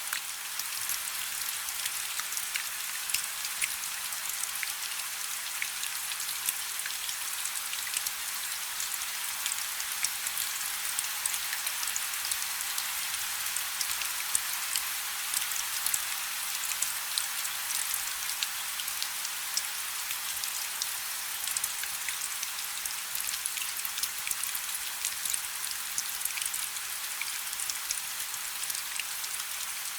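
Steady rain falling on a river's surface: a dense hiss sprinkled with many small individual drop splashes.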